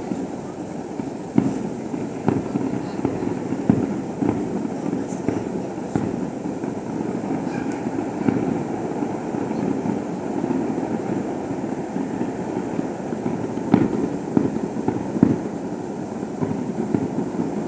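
Fireworks display: a continuous rumble of bursts with sharper bangs scattered irregularly every second or so, the loudest about three-quarters of the way through.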